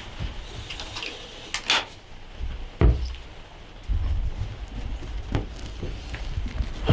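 Scattered knocks, clicks and handling noise inside a hunting ground blind, with low rumbling surges of wind or handling on the microphone; the sharpest knocks come about three seconds in and again a little past five seconds.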